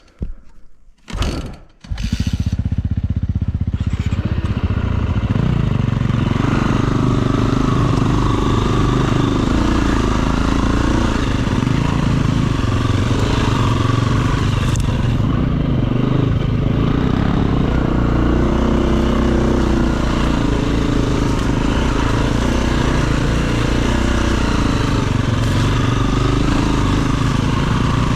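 Dirt bike engine: after a few short knocks, its sound comes in abruptly about two seconds in and runs on loud and steady.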